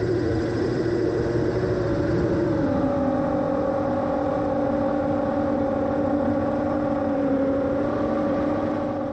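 MJX Bugs 3 quadcopter's brushless motors and propellers running in flight: a steady buzzing whine that dips slightly in pitch about three seconds in as the throttle eases, then holds.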